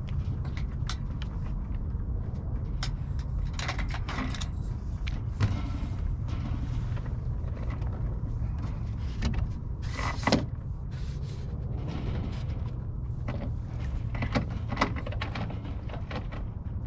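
Lines and fittings being handled on a sailboat's deck as the jib pole is taken in: scattered knocks and clicks and a few brief rubbing sounds, the loudest about ten seconds in, over a steady low rumble.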